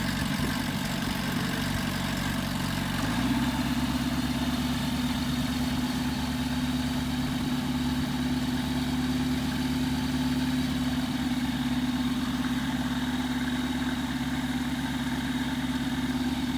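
Tailwheel light airplane's piston engine idling steadily just after start-up, with its speed stepping up slightly about three seconds in.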